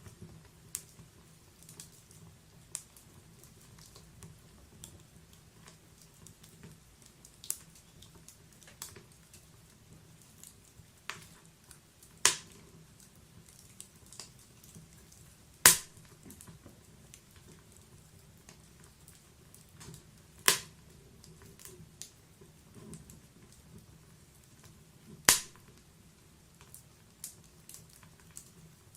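Wood fire in a fireplace crackling: scattered sharp pops and snaps over a faint low hiss, with four louder pops spaced a few seconds apart.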